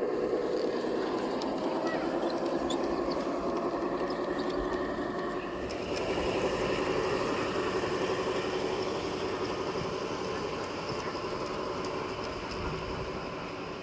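G-scale garden-railway model train running along the track, a steady rolling rumble of wheels and motor that turns a little brighter and hissier about six seconds in.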